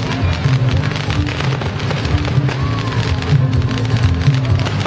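Fireworks crackling, a dense patter of small pops from the falling spark trails, over music.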